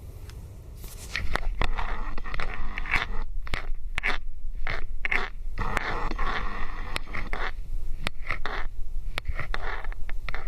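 Footsteps crunching, about two steps a second, starting about a second in, over a steady low rumble.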